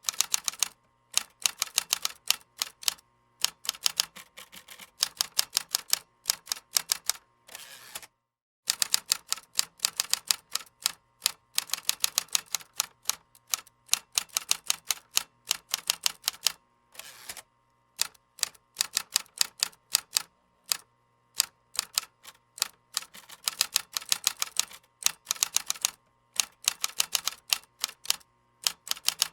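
Computer keyboard typing: quick runs of key clicks broken by short pauses. The sound cuts out completely for a moment about eight seconds in.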